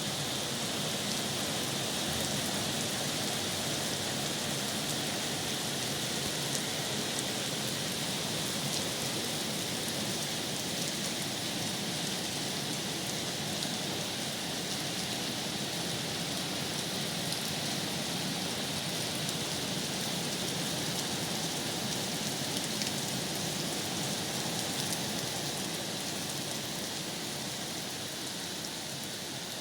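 Steady heavy rain falling, a dense even patter of drops that eases slightly near the end.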